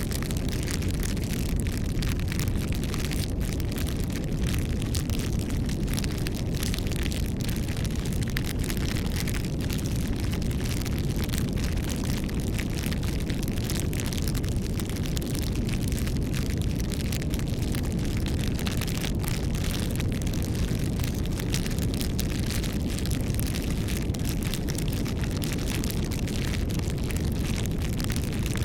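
Campfire burning: a steady low rumble of flames with frequent sharp crackles and pops of burning wood.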